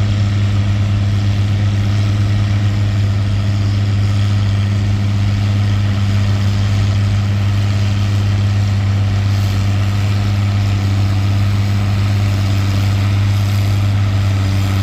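Antique tractor engine running at a steady speed while pulling a weight sled down the track, a constant low drone with no change in pitch.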